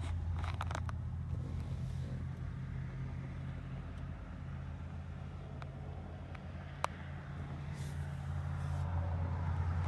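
2016 Lincoln Navigator's 3.5-litre twin-turbo V6 idling, a steady low hum heard inside the cabin. A brief rustle comes near the start, and a single sharp click about seven seconds in.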